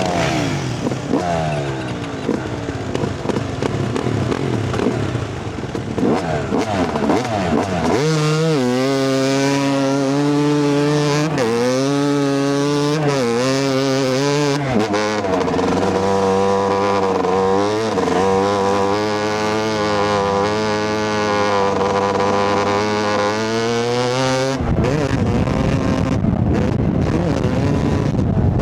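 Yamaha YZ250 two-stroke dirt bike engine under way, its pitch rising and falling repeatedly as it revs through the gears. Other dirt bike engines mix in during the first few seconds, and about 25 seconds in the engine tone gives way to a rush of wind on the microphone.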